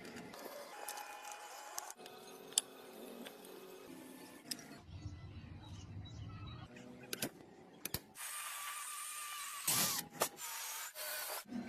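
Small mechanical and tool noises in short, abruptly cut clips: clicks and light rattling, then a steady hiss with a faint whine over the last few seconds.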